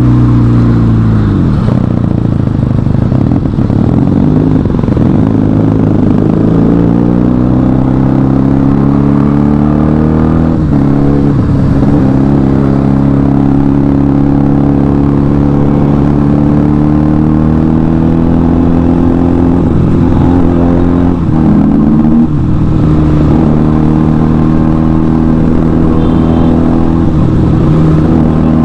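Motorcycle engine on the move at riding speed. Its note climbs slowly under throttle and drops sharply a handful of times as the throttle is closed, then picks up again.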